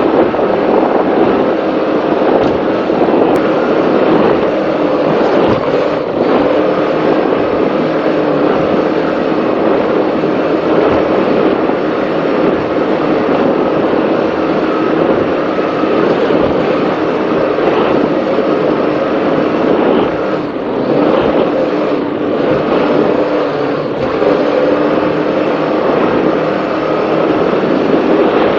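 Offshore racing powerboat's engines running steadily at speed, a continuous loud drone with steady tones, heard onboard mixed with a constant rush of wind and water noise.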